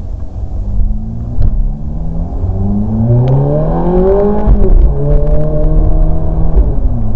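Ferrari F430 Spider's 4.3-litre V8 on its stock exhaust, accelerating hard: the revs climb for about three seconds, drop at an upshift about four and a half seconds in, hold steady, then fall away again near the end.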